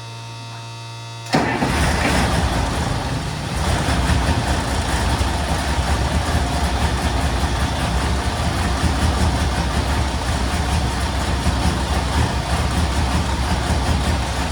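Cold start of a 1967 M35A2 deuce-and-a-half's multi-fuel diesel engine at about 10 °F: the starter kicks in suddenly about a second in, the engine catches a couple of seconds later and settles into a steady, loud cold idle. A steady low hum is there before the start.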